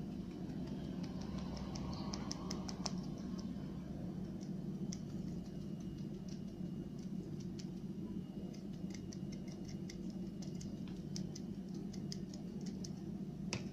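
Powdered sugar being sifted over a freshly baked pie: many small, irregular taps and scratches, over a steady low hum.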